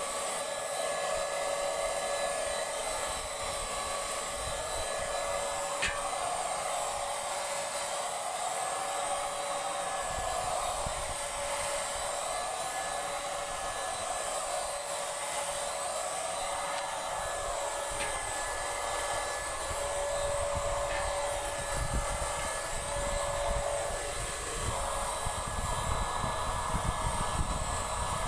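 Paint Zoom handheld electric paint sprayer running steadily while spraying, a constant motor whine over a rushing air hiss that wavers slightly as the gun moves, with a couple of faint clicks.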